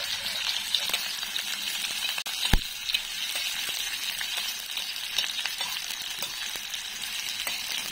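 Chopped onion, green chilli, garlic and ginger sizzling with cumin in hot mustard oil on a tawa, stirred with a metal spoon that clicks and scrapes against the pan. One sharp knock about two and a half seconds in.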